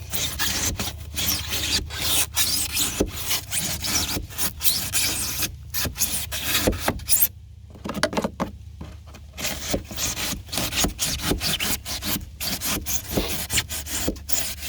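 Drywall knife sawing through old pour-in flotation foam in a boat hull, quick rasping back-and-forth strokes with a short pause about halfway through.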